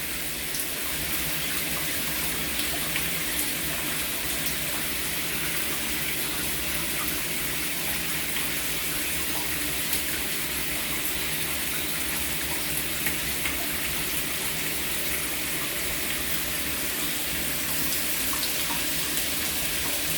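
Shower running steadily, its spray splashing onto a perch and a bathing parrot.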